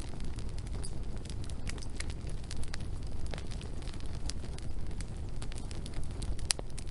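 Wood fire burning, with irregular sharp crackles and pops over a steady low rumble; one pop near the end stands out as the loudest.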